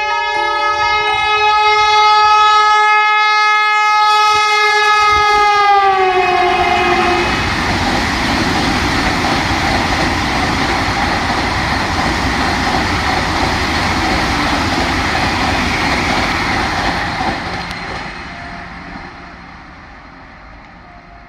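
Vande Bharat Express train sounding a long, steady horn that drops in pitch about six seconds in as the train passes. The noise of the train running past follows for about ten seconds, then fades as it goes away.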